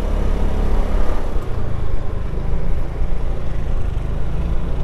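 Motorcycle on the move: a steady, loud, fluttering low rumble of wind and engine on the rider's microphone.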